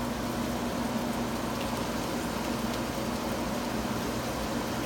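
Heavy rain falling steadily, an even hiss of drops on the ground and surfaces, with a faint steady hum underneath.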